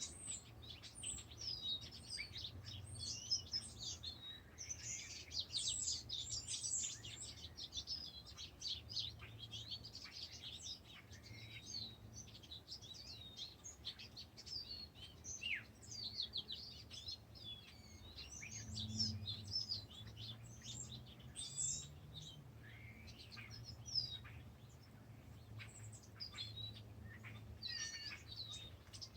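Several birds singing at once, a dense run of quick, high chirps and trills that overlap one another, over a faint steady low hum.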